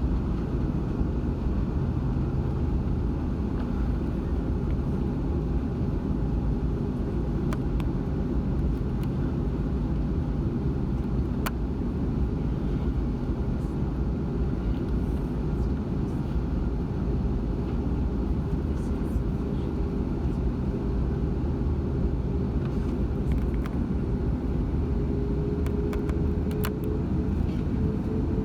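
Steady low rumble of an Airbus A340-600's cabin with its four Rolls-Royce Trent 500 engines running, with a few light clicks. A steady tone rises slightly in pitch near the end.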